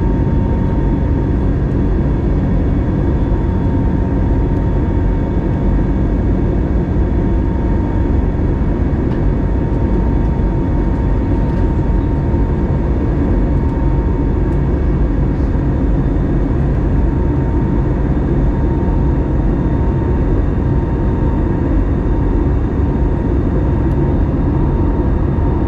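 Airbus A320neo cabin noise in flight: a steady, loud rumble of the engines and airflow with a thin steady whine on top.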